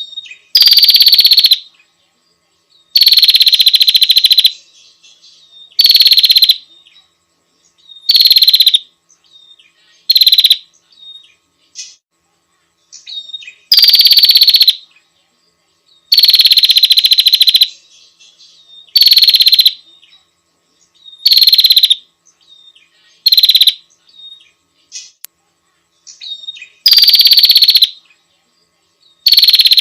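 Female prinia (prenjak) calling: loud, harsh, buzzing trills about a second long, repeated every two to three seconds, with fainter short chirps between them.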